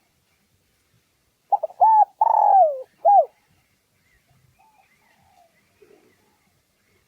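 Spotted dove cooing one phrase about one and a half seconds in: two short coos, then a longer coo falling in pitch, then a final short coo. Faint chirps of other birds follow.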